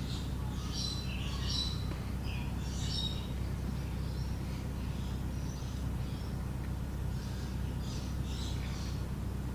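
Birds chirping again and again in short high calls, over a steady low hum.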